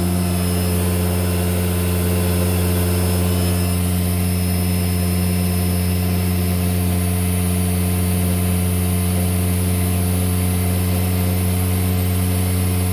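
Hoover Celebrity Quiet Series canister vacuum running steadily on high speed with its power nozzle brush roll on, a constant low hum.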